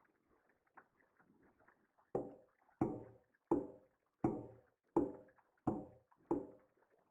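A run of six sharp knocks, evenly spaced about three-quarters of a second apart, each ringing briefly before it dies away, starting about two seconds in. Fainter scattered ticks come before them.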